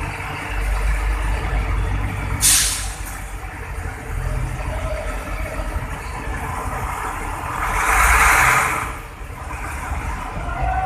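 Hino truck's diesel engine running with a low rumble, with a short sharp hiss of air about two and a half seconds in and a longer hiss near eight seconds, typical of its air brakes releasing.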